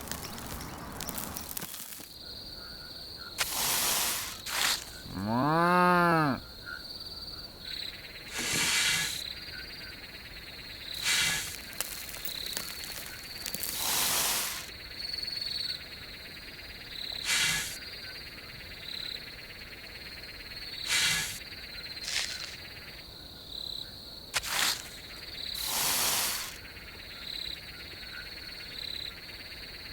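A cow moos once, about six seconds in, the call rising and then falling in pitch. Behind it, insects keep up a steady high trill, and short noisy rustles come every few seconds.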